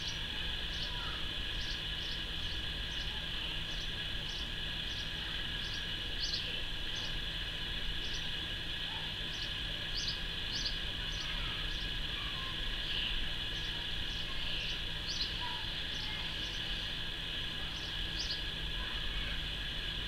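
Small birds chirping in short high notes, repeating irregularly about once or twice a second, over a steady high-pitched background hiss.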